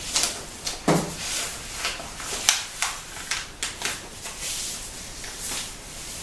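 A sheet of paper being folded by hand, rustling and crackling in a string of short, crisp sounds as the fold is made and pressed down.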